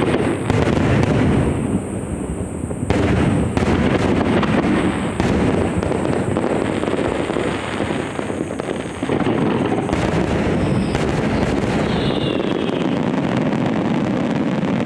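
Fireworks display in full barrage: a continuous rumble of many aerial shells bursting, with sharper bangs standing out every second or two.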